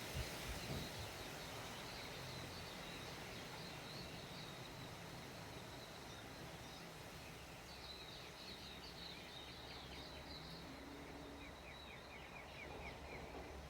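Wind rushing and rumbling on the microphone, with small birds chirping in quick high series through it and short falling chirps near the end.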